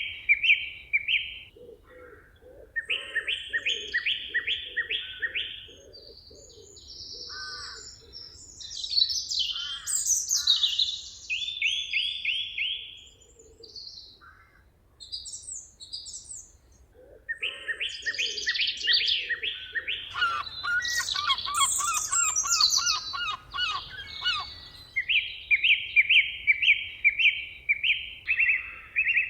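Several woodland birds singing at once. Bright, fast repeated chirp phrases and higher sweeping notes overlap, and a lower call repeats evenly underneath twice, early on and again in the second half.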